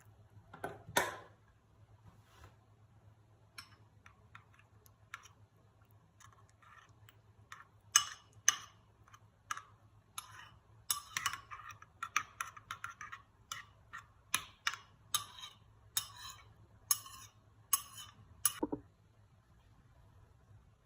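A run of light, irregular clicks and taps, as from handling small hard objects, a few at first and then coming quickly for about ten seconds before stopping, over a faint low hum.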